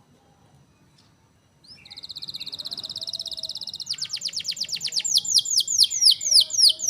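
A songbird singing: a fast, high trill for about two seconds, then a run of loud notes that each sweep downward, slowing toward the end.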